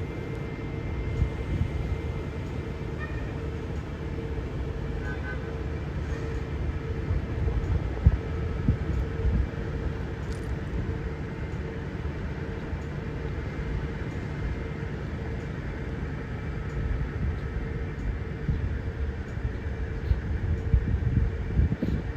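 Amtrak passenger train's diesel locomotives running close by: a steady low rumble with a constant hum.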